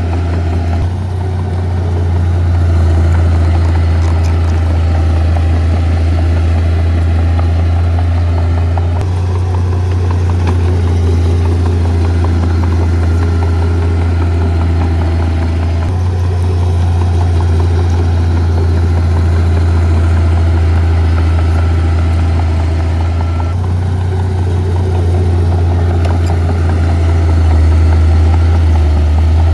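Heavy earthmoving equipment's diesel engines running steadily with a deep low hum; the sound changes abruptly three times.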